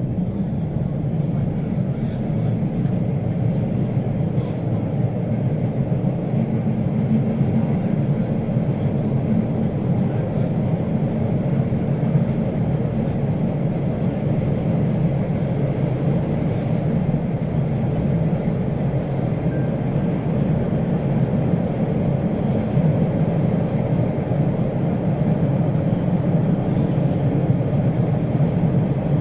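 Subway train running, a steady low rumble of wheels on rails that holds even throughout.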